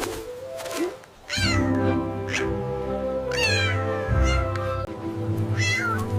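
A cat meowing about five times, each meow falling in pitch, over steady background music.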